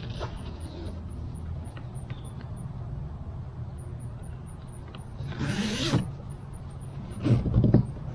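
Gear being handled on the kayak: a brief rustling scrape about five seconds in, then a few low knocks near the end, over a steady low hum.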